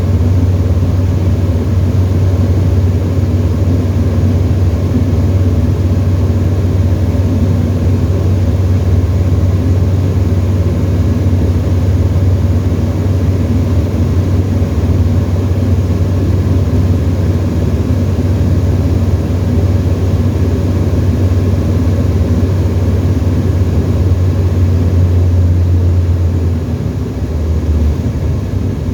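Tecnam light aircraft engine and propeller in flight, a loud, steady low drone. The drone dips and shifts briefly near the end.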